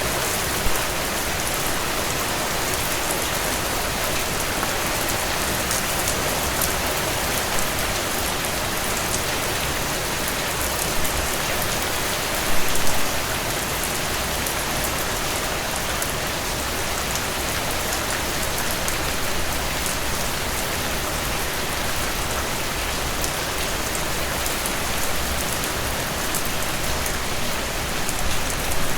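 Heavy rain falling steadily on a cabin porch, with fireplace crackles ticking through it and a few louder pops, the biggest about thirteen seconds in.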